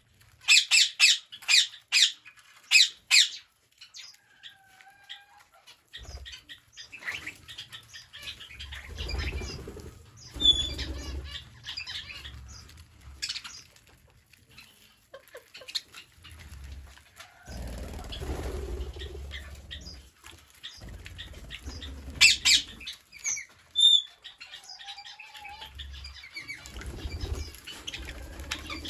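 Green parrots calling: a run of loud, sharp squawks in the first few seconds, then scattered chirps and squeaks and another burst of loud squawks about two-thirds of the way in. Low rustling bursts come and go underneath from about six seconds on.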